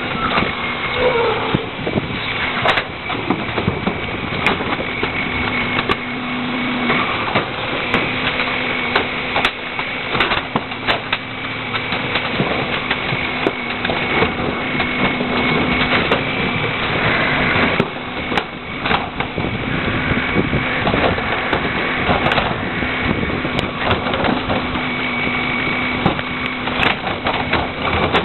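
Rear-loader garbage truck running, with a steady whine and many short cracks and crunches of trash being compacted in the hopper.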